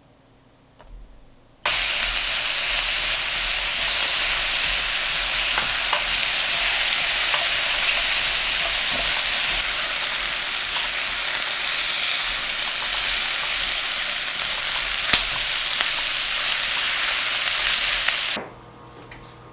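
Food sizzling in hot fat in a frying pan: a steady, loud hiss that starts suddenly about two seconds in and cuts off suddenly near the end, with a few sharp clicks, one louder about fifteen seconds in.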